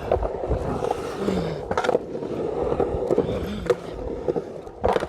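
Skateboard rolling on a ramp, its wheels giving a steady rumble, with sharp clacks of the board or trucks striking about two seconds in and again near the end.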